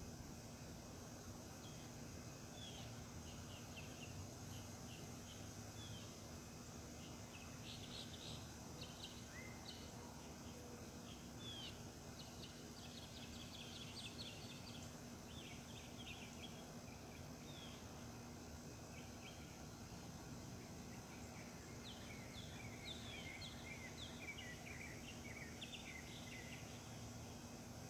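Songbirds chirping and singing in short quick phrases, in two spells with a lull in between. Under them is a steady low hum and a faint high steady hiss.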